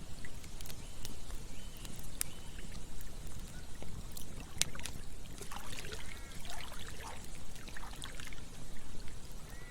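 Campfire crackling, with sharp scattered pops over a steady low rush of flowing water. A cluster of short chirps comes about halfway through.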